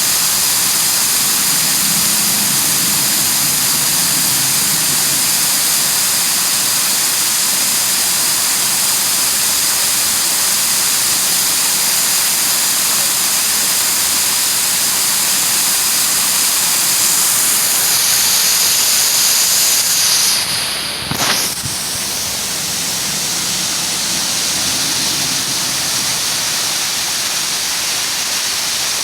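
Falling water from a park water feature, a steady loud rush and splash. About two-thirds of the way through it briefly drops away with a sharp click, then carries on a little quieter.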